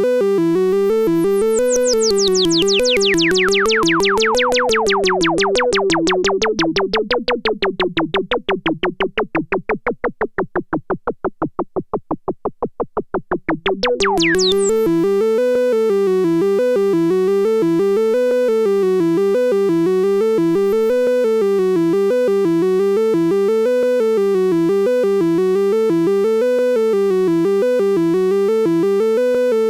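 Arturia Brute-line analog synthesizers playing a repeating sequenced bass pattern, raw and unprocessed. For the first half a second layer pulses rapidly and sweeps down in pitch, then climbs back up and ends about fourteen seconds in.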